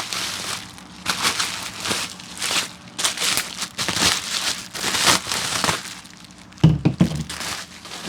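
Plastic packaging crinkling and rustling in irregular bursts as new suspension arms are unwrapped, with a heavier thump about two-thirds of the way through.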